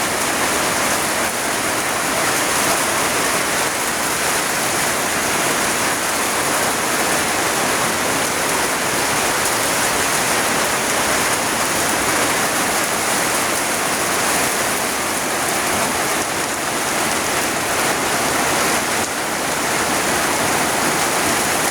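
Heavy rain falling steadily in strong wind, a dense even hiss of rain on surfaces with no let-up.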